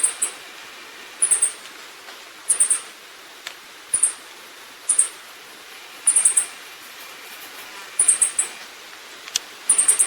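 Very high-pitched, short bird calls in little clusters of two to four notes, repeated about every second and a bit.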